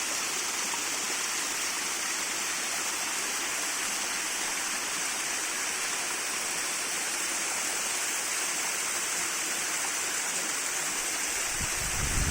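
Waterfall: a steady, unbroken rush of falling water, with a brief low rumble near the end.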